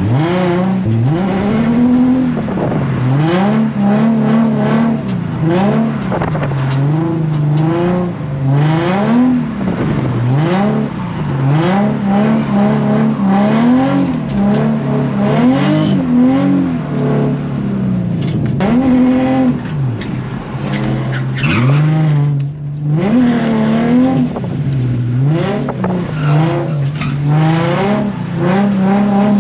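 Infiniti G35 coupe's 3.5-litre V6 revving hard and falling back again and again, its pitch rising and dropping every second or two as the throttle is worked through a drift. The engine note drops away briefly about 22 seconds in, then picks up again.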